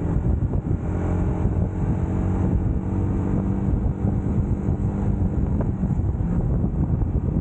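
UM Scrambler X motorcycle engine running at a fairly steady speed while riding, with wind rumbling on the microphone.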